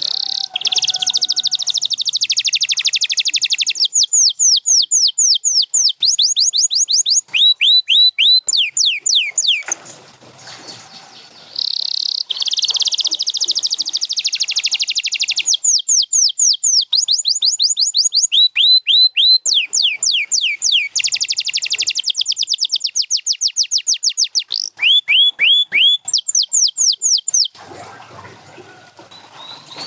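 Domestic canary singing long song phrases of fast, high rolls and trills, mixed with runs of rapidly repeated, sharply falling whistled notes. The song breaks off for about two seconds near the middle and again shortly before the end.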